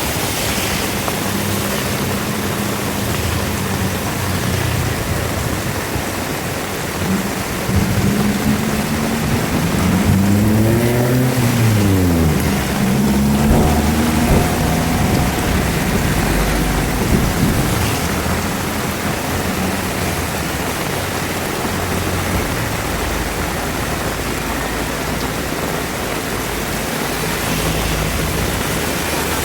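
Heavy rain falling steadily. From about a quarter to halfway through, a motor vehicle's engine passes, its pitch rising and then falling.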